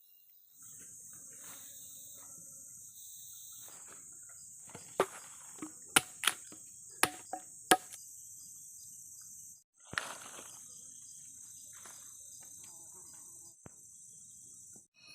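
Steady, high-pitched buzzing of forest insects, with a short break about two-thirds of the way through. A handful of sharp knocks or clicks come close together near the middle, and one more follows soon after.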